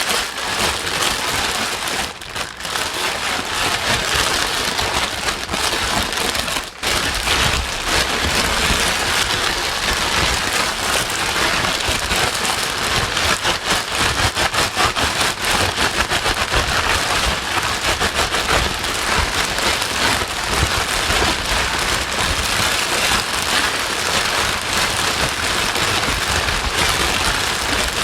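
White noise that sounds like steady heavy rain: a dense, even hiss with a fine patter. The level dips briefly twice, about two and about seven seconds in.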